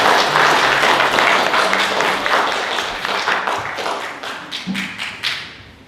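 Congregation applauding: a full round of clapping that thins out and dies away over the last couple of seconds.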